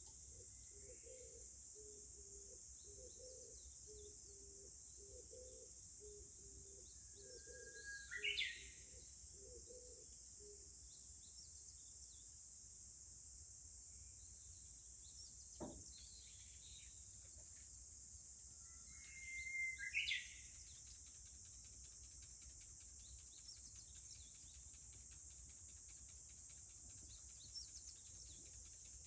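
Steady high-pitched insect drone, with a Japanese bush warbler singing twice. Each song is a held whistle followed by a quick rising flourish. A faint low note repeats during the first ten seconds, and a single sharp click comes about midway.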